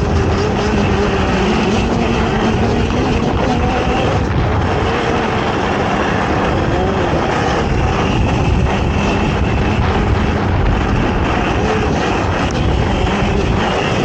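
ATV engine running hard, its pitch rising and falling with the throttle, over a constant rumble.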